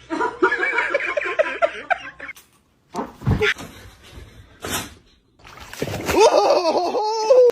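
A person laughing hard. After a cut come a couple of sharp splash- or smack-like hits, and near the end a high, wavering cry.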